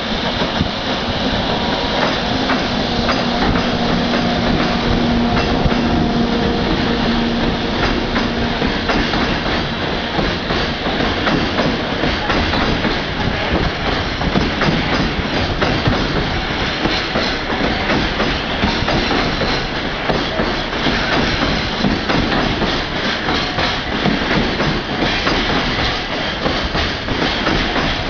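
JR Freight container train running past at speed, its wagon wheels clattering steadily over the rail joints. A low hum fades out about eight seconds in.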